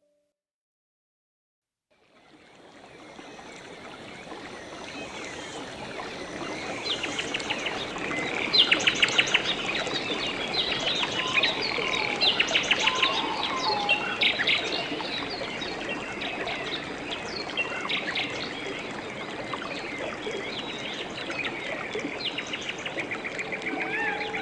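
Forest ambience fading in after about two seconds of silence: many birds chirping and trilling over a steady background wash.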